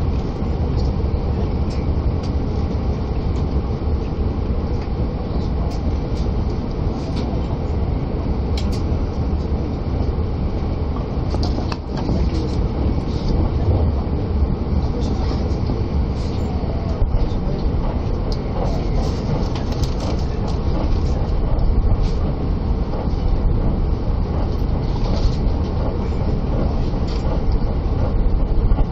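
Interior running noise of a JR Shiosai limited express electric train at speed: a steady rumble of wheels on rail, with a few sharp clicks along the way.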